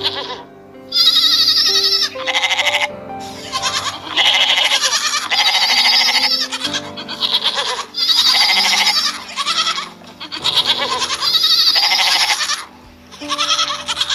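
Goats bleating again and again, about a dozen wavering calls one after another, over background music.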